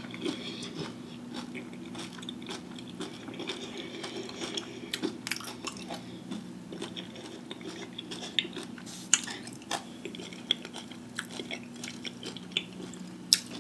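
Close-miked chewing of a crunchy Flamin' Hot Cheetos–coated fried pickle, with scattered crisp crunches, a few louder ones near the end, over a faint steady low hum.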